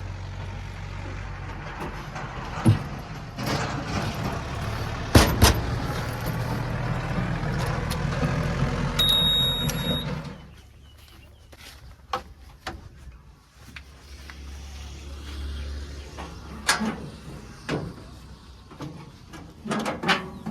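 A large vehicle's engine running and growing louder, then dropping away sharply about ten seconds in. Several knocks sound over it, and a lower hum and scattered clicks follow.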